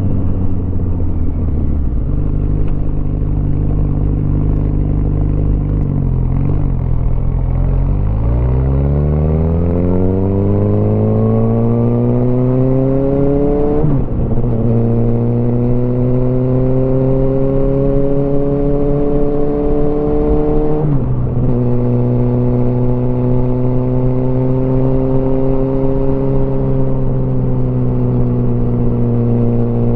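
Motorcycle engine running at low revs, then accelerating: the pitch rises, dips briefly at two upshifts, and settles into a steady cruise.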